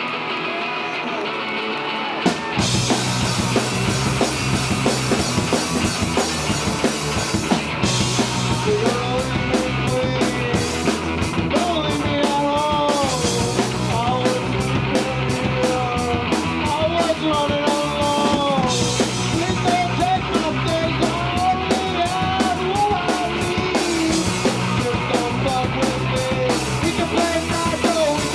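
A rock trio playing live: guitar alone at first, then drums and bass come in about two and a half seconds in, with a wavering melody line over the top.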